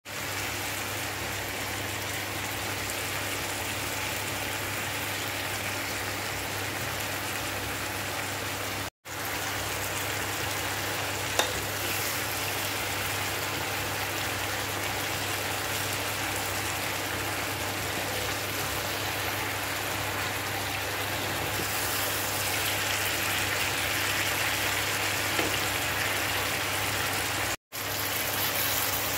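Yardlong beans and chicken in adobo sauce sizzling in a frying pan, a steady hiss with a low hum underneath. The sound cuts out briefly twice.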